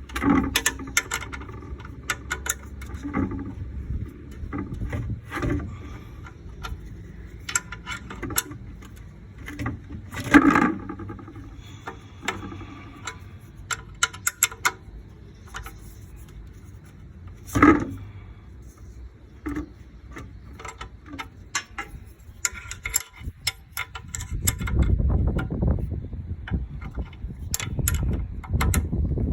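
Irregular clinks, knocks and scrapes of a socket wrench and hand tools on metal under a car as the engine oil drain plug is worked loose, with a low rumbling near the end.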